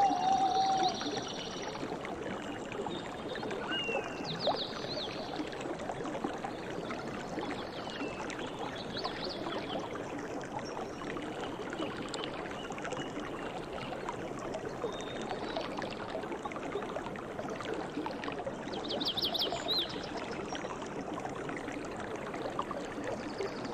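Stream water flowing with a steady rush, with a few short bursts of quick high chirps about four, nine and nineteen seconds in.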